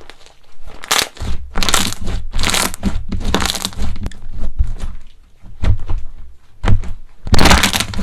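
Crunchy slime being pressed and squeezed by hand, giving a run of sharp crackles and crunches over a low handling rumble. The biggest burst of crackling comes near the end.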